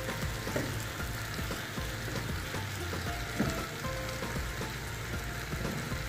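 Cubed bottle gourd sizzling as it fries with sautéed tomato, onion and garlic in oil in a frying pan, a steady hiss with scattered light ticks of a spatula stirring it.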